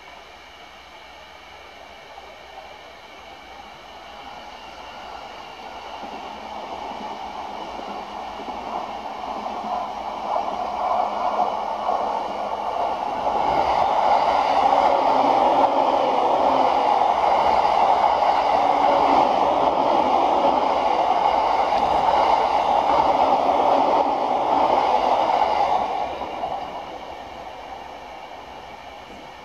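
A JR East stainless-steel electric commuter train passes close by on the line. Its running noise grows as it approaches and is loud and steady for about twelve seconds while the cars go past. The noise drops off sharply near the end as the last car clears, then fades.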